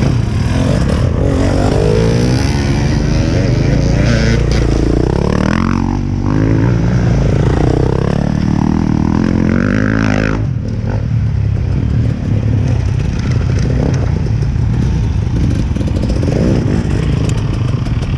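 Two-stroke dirt bike engine revving up and down over and over for about the first ten seconds, then running more evenly.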